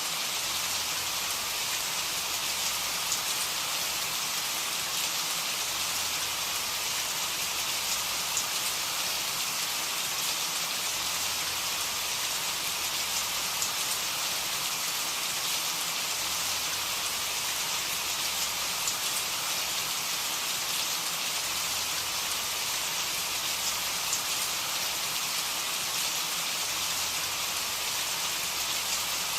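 Steady rain falling, with the patter of drops on a surface.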